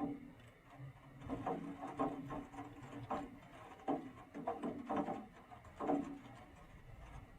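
A run of irregular knocks and clicks, about a dozen at uneven spacing, starting about a second in, as of small objects being handled.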